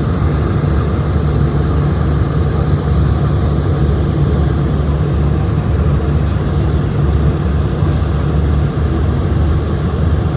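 Steady cabin noise inside an Airbus A220-100, its Pratt & Whitney geared turbofan engines and the airflow heard as an unbroken low rumble and rush.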